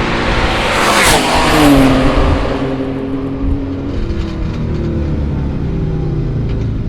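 Twin-turbo 427 cu in LSX V8 of a 6,200 lb Escalade, its revs falling as it slows after a drag run, then running steadily at lower rpm. A brief rush of noise about a second in.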